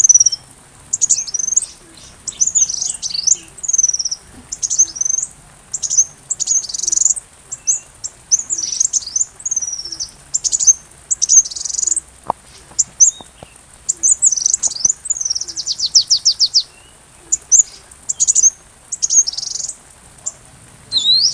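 Sunbird song: a quick run of high, thin chirps and short sweeping phrases in bursts, with a fast rattling trill about three quarters of the way through.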